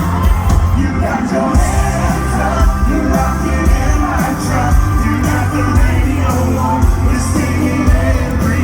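Live concert music: an amplified band playing with a lead singer, loud and steady over a heavy bass.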